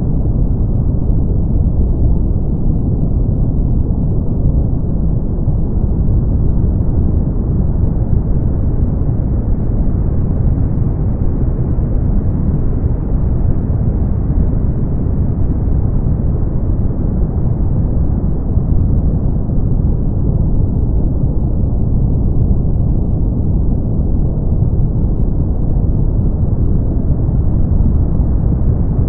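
Brown noise: a steady, deep rumbling hiss, strongest in the bass and dull in the treble, with a very slow, gentle swell in its brightness.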